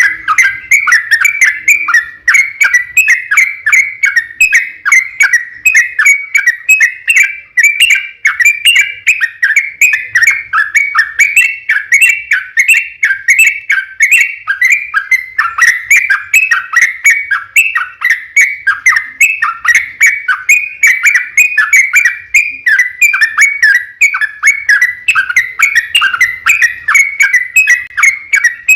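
Yellow-vented bulbul (trucukan) singing a long, unbroken run of rapid chattering notes, the kind of long-rolling song bird keepers play as a lure to get other bulbuls to answer.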